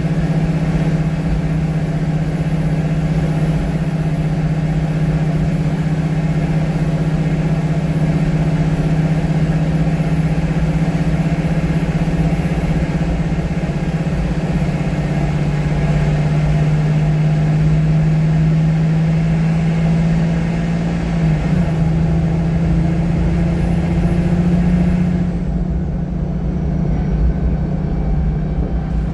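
VDL SB200 single-deck bus under way, heard from inside the cabin: its engine hums steadily and slowly climbs in pitch, then the note drops sharply about two-thirds of the way through.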